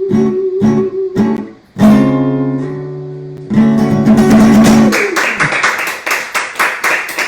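Acoustic guitar ending a song: a few steady strummed chords, a loud ringing chord about two seconds in and another about a second and a half later, then fast strumming to close.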